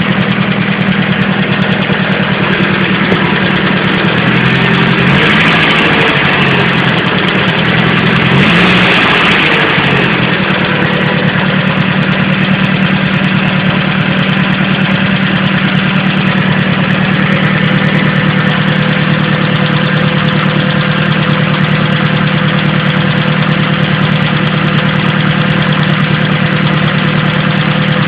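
Vehicle engine idling steadily and revved briefly twice, about five and nine seconds in. The owner questions whether a noise in it is abnormal.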